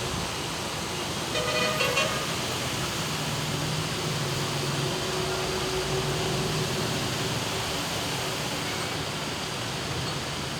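Steady hiss of heavy rain, with a vehicle horn giving a short toot about a second and a half in and a passing vehicle's engine drone a few seconds later.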